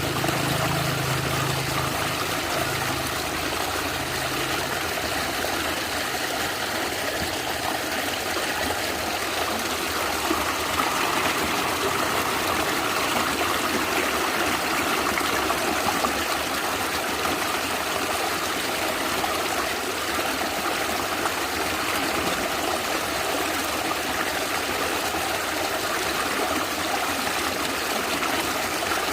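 A small stream gurgling and trickling steadily over stones, with a faint low rumble in the first few seconds that fades out.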